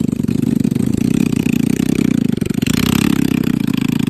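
Motorcycle engine running with a rapid, even pulsing, loud throughout; a brief rushing hiss rises over it a little before three seconds in.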